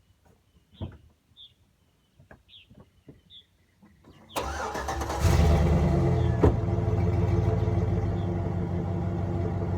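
A 1500 pickup truck's engine starting about four seconds in, flaring up briefly and then settling into a steady idle through its stock exhaust, muffler and catalytic converters still fitted.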